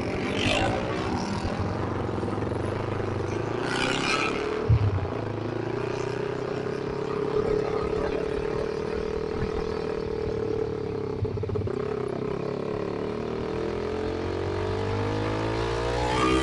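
Single-cylinder Kawasaki Ninja 250 mono engine running through an SC-Project aftermarket exhaust, its note rising and falling gently with engine speed. A single sharp knock is heard about five seconds in.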